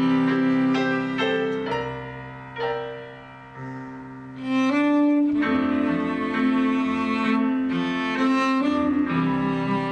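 Cello and piano playing together: sustained bowed cello lines over struck piano chords. The music softens to a quiet phrase about two seconds in, then swells back to full a little before halfway.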